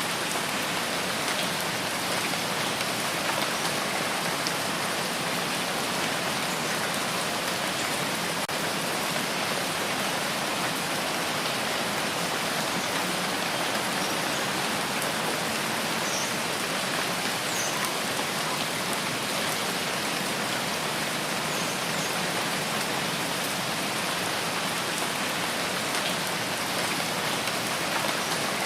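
Steady rain falling in a rain forest, an even hiss of drops on leaves, with a few faint high chirps now and then.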